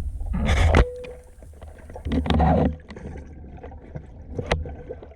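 Water sloshing and splashing as a diver wades out of a river, with two loud surges of splashing and a few knocks, over a steady low rumble.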